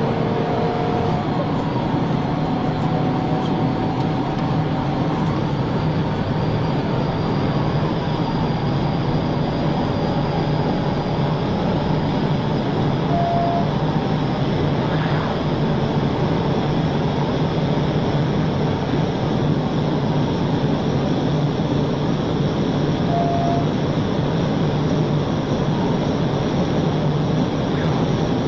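Steady road and engine noise of a car driving at highway speed, with faint gliding tones throughout. Two short beeps sound about ten seconds apart.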